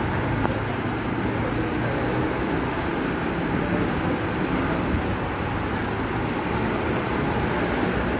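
Steady vehicle noise, a constant rumbling hiss with a low hum that fades about a second in.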